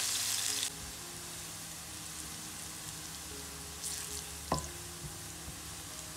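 Chopped onions and ginger-garlic paste sizzling in hot oil as a wooden spatula stirs them. The sizzle is loud at first and drops suddenly to a quieter hiss under a second in. A sharp knock comes about four and a half seconds in.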